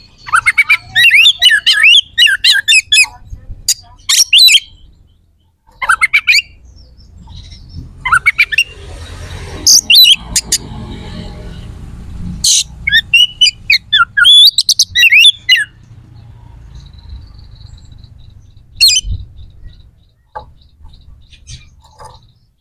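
Oriental magpie-robin singing in loud, separated bursts of rapid, varied whistles and harsh notes, with short pauses between phrases.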